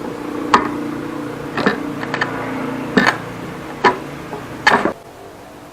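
Six sharp knocks of a striking tool on timber, roughly one a second, as a hand-cut joint is worked. A steady low hum runs under them and stops about five seconds in.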